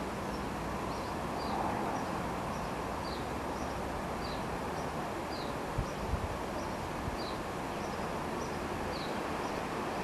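A small garden bird repeating a short, high, slightly falling chirp roughly every half second to second, over a steady low outdoor rumble. Two or three dull low bumps about six seconds in.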